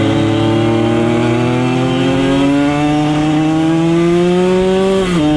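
Motorcycle engine under load, its pitch climbing slowly and steadily as it accelerates. Near the end the pitch drops suddenly at a gear change.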